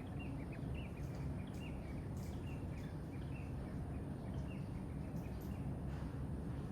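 Small birds chirping in quick, short notes, again and again, over a steady low rumble and a thin, steady high-pitched hiss.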